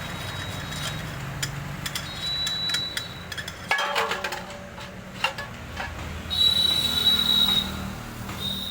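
Old Mahindra 265 tractor's diesel engine running while it works a front loader, with scattered metallic clinks and knocks and a high steady whine that comes and goes several times, loudest about two-thirds of the way through.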